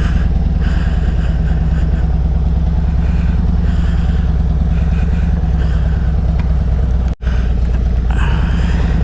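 Vehicle engine idling steadily, with a brief drop-out in the sound about seven seconds in.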